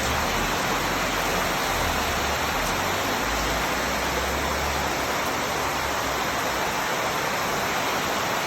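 Steady, even rushing noise of the kind made by falling water or heavy rain, with low rumbles from wind on the microphone during the first five seconds.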